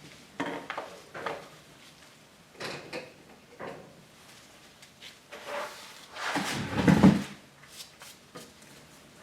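Grooming tools and bottles being handled: a string of separate clicks, knocks and rustles, with a louder thump about seven seconds in.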